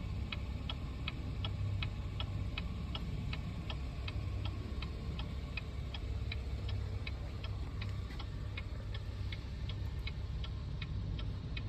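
Inside a 2019 Cadillac XT5: an even run of sharp ticks, about three a second, over the steady low hum of the engine idling.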